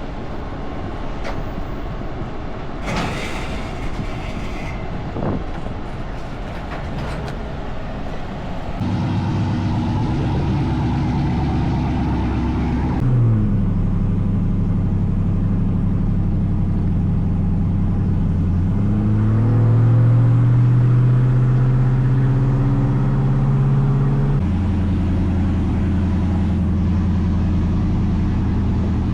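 A vehicle engine running steadily after some knocks and clatter near the start. Its pitch drops about halfway through, then climbs again and shifts once more near the end, as with engine speed changing while driving.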